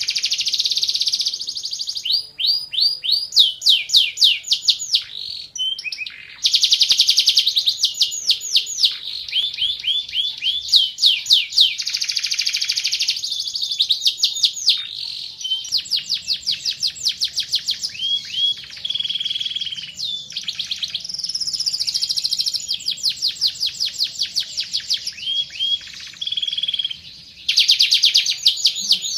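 Domestic canary singing a long, continuous song of rapid trills and rolls, each phrase a fast run of repeated sweeping notes, switching to a new phrase every second or two with only brief breaks.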